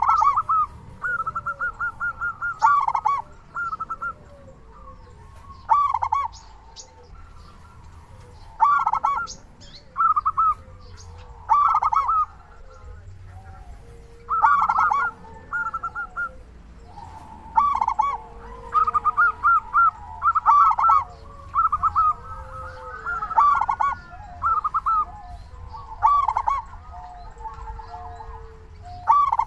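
Zebra dove (perkutut) singing over and over: short bursts of rapid, staccato cooing notes come every two to three seconds, with fainter, lower calls between the phrases.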